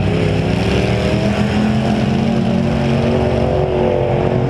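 Demolition derby car's V8 engine running under throttle, heard on board the car: a loud, steady drone whose pitch wavers slightly as the car drives.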